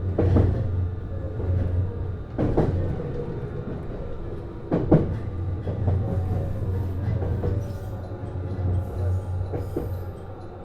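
Interior sound of a JR East HB-E210 series hybrid train: a steady low hum with a few sharp knocks, the loudest about five seconds in.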